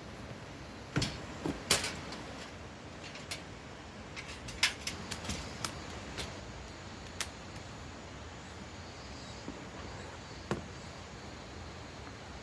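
Irregular sharp clicks and knocks of tent gear being handled during tent pitching, a cluster of them in the first half and one more near the end, over a steady faint background hiss.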